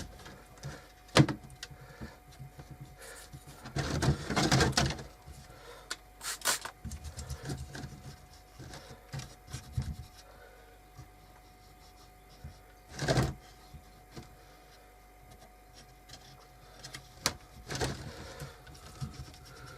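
Scattered handling sounds of hands working on a small wooden piece: short knocks and clicks with stretches of rubbing and scraping, the densest about four to five seconds in, over a faint steady hum.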